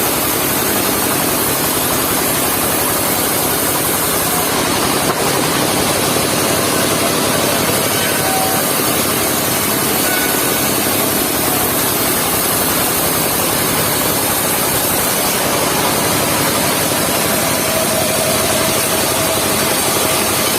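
Engine of a mobile circular-saw sawmill running steadily, with a loud, even noise and a single small click about five seconds in.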